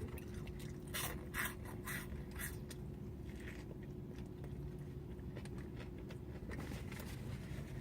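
A person biting and chewing food, with a few short crunchy bites in the first couple of seconds and softer chewing after, over a steady low hum.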